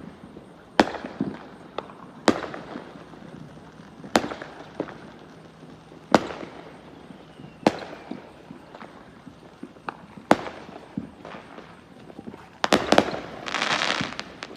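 Consumer fireworks going off around a residential street: single sharp bangs every one to two seconds, each trailing an echo, then a dense run of crackling pops near the end.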